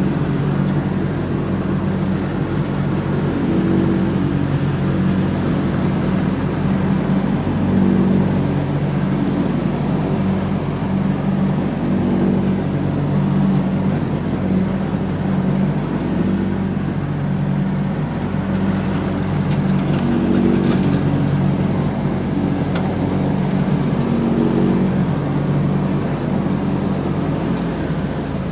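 John Deere X304 lawn tractor's engine running steadily under mowing, its note wavering slightly in pitch every few seconds.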